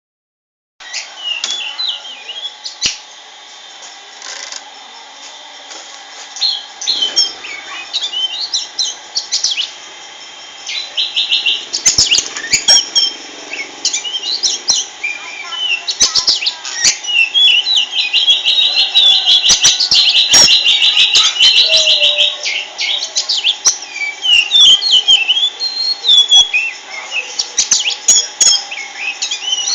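Oriental magpie-robin (kacer) singing a continuous, varied song of chirps and whistles, with fast rattling trills about a third of the way in and again in the middle. A few sharp clicks are heard among the song.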